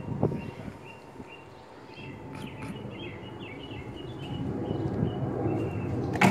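Outdoor ambience: a bird chirping in a string of short high notes over a low steady rumble, with a single sharp knock right at the end.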